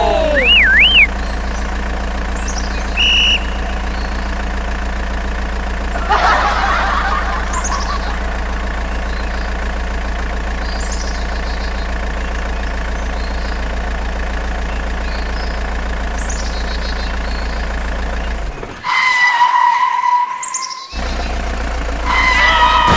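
A steady machine hum with short whistling chirps over it; near the end the hum drops away briefly under a steady two-note electronic beep.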